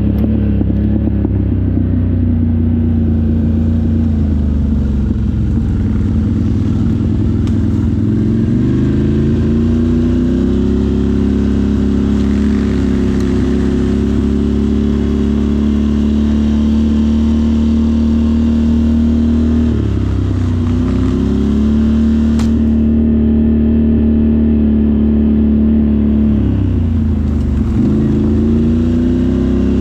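Off-road vehicle engine running under steady throttle on a ride. Its pitch drops and climbs back three times, slowly between about 5 and 9 seconds, then briefly around 20 and 27 seconds, as the throttle is eased off and opened again.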